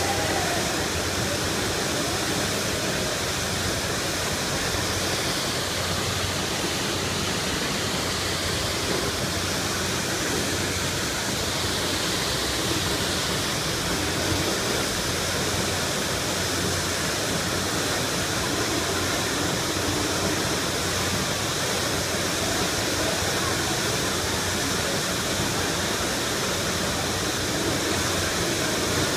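Water gushing from a fire hydrant broken off by a truck, a steady rushing geyser that holds even throughout.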